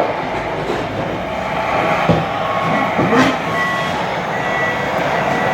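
Reversing beeper of a radio-controlled model truck or loader sounding in short repeated beeps from about halfway through, over steady outdoor noise, with two sharp knocks shortly before.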